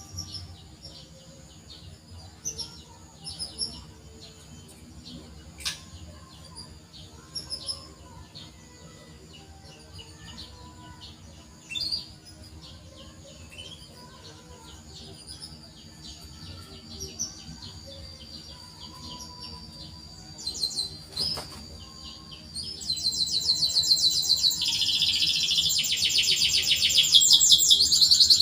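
Canary giving short, scattered 'cuit cuit' chirps, then breaking into a loud, rapid, continuous trilling song about 23 seconds in.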